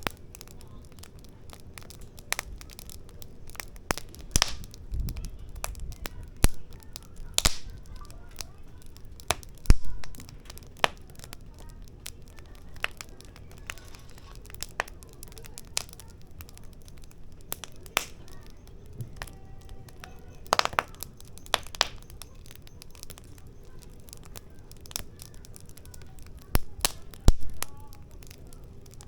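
Firewood burning in a fire pit, crackling with irregular sharp pops and snaps, a few of them loud, over a low steady background.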